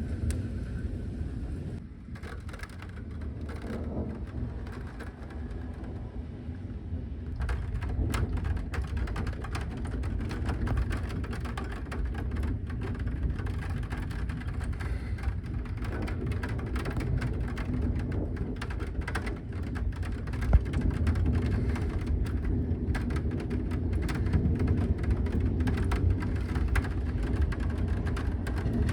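Steady rain with many irregular drops ticking on a hard surface over a deep low rumble, with one sharper knock about two-thirds of the way through.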